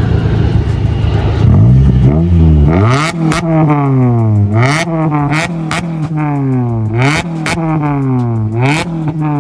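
Car engine being revved hard in repeated blips at a car meet rev battle, the pitch climbing and dropping back about once a second, with sharp pops between the revs.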